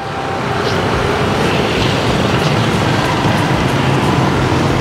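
Steady motor vehicle noise: an engine running under a continuous rush of road and traffic noise.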